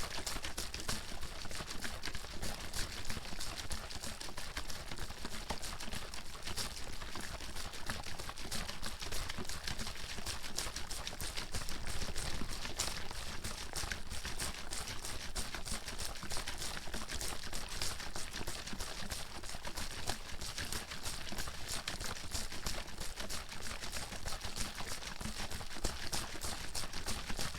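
Bottle with water in it being shaken hard and continuously: rapid, unbroken sloshing and splashing of the water against the inside of the bottle.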